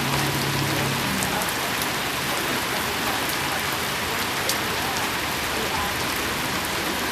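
Steady rain falling: an even, dense hiss with scattered drop ticks.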